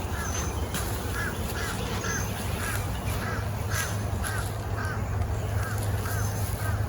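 A bird calling a short, repeated note about twice a second, with a few brief high chirps from another bird now and then, over a steady low hum.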